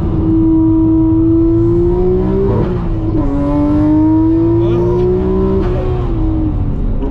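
Turbocharged inline-six sports car engine pulling hard around a track. Its pitch climbs slowly, then drops about three seconds in and again near six seconds as it shifts gear.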